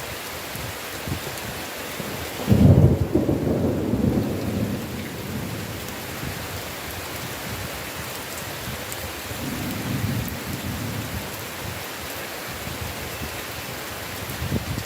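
Steady heavy rain, with a loud low rumble of thunder breaking in about two and a half seconds in and dying away over the next couple of seconds; a fainter rumble swells again around ten seconds in.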